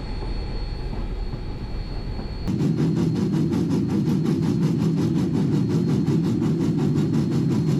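Lionel Lion Chief O-gauge switch engine running on plastic Fastrack with a hopper car, a steady motor-and-wheel rumble. About two and a half seconds in it gets louder, with a rapid, even clicking running through it.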